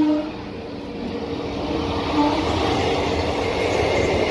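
A locomotive horn cuts off right at the start, then the rumble and rattle of ICF passenger coaches passing close by on the track, growing gradually louder, with a brief horn-like tone about two seconds in.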